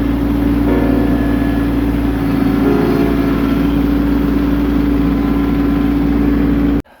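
Kubota tractor's diesel engine running steadily at a constant speed while driving its snowblower, a loud even drone with a strong steady hum. It cuts off abruptly near the end.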